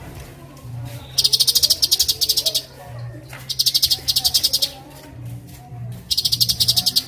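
Cucak cungkok song: three bursts of very rapid, high, buzzy trilling, with softer, lower, rising-and-falling notes between them.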